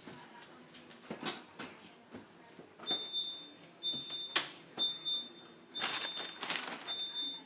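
Refrigerator door-open alarm beeping: a high steady tone repeating about once a second from about three seconds in, because the doors have been held open too long. Sharp clacks and knocks of things being handled sound in between, the loudest about halfway through.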